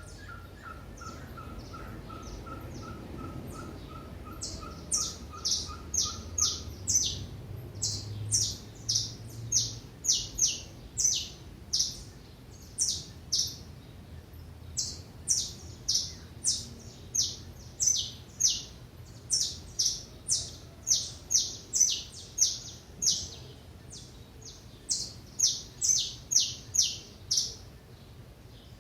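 Small wild birds at a feeder calling: a quick run of short, lower notes for the first several seconds, then loud, high, sharply falling chirps repeated nearly twice a second.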